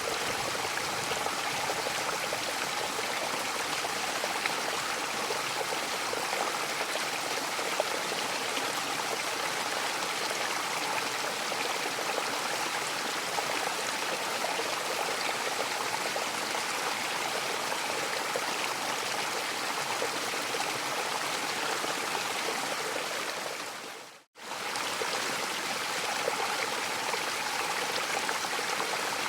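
Mountain waterfall, its water rushing and splashing in a steady, even hiss. About 24 seconds in it fades to silence for a split second and comes straight back.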